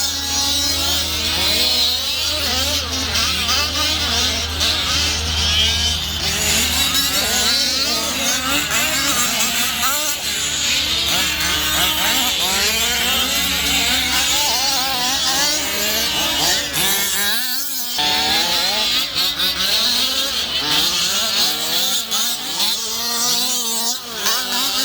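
Several gas-powered RC cars' small two-stroke engines buzzing and revving together, their pitches constantly rising and falling as they race. A low steady hum sits underneath for the first several seconds.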